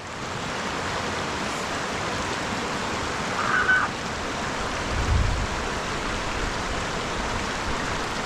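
A mountain river rushing steadily over rocks. A brief high tone comes about three and a half seconds in, and a low thump about five seconds in.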